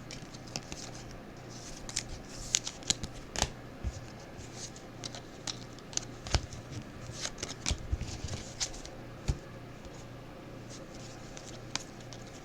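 2020 Mosaic football trading cards being handled and slid one by one through a stack, making light, irregular clicks and rustles that thin out near the end.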